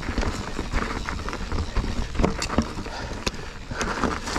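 Mountain bike clattering over a rocky trail: irregular clicks and knocks from the tyres, frame and drivetrain over a constant low rumble.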